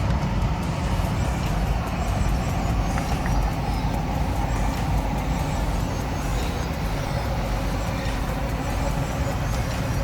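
Steady rushing of a large waterfall, a dense even noise that does not let up.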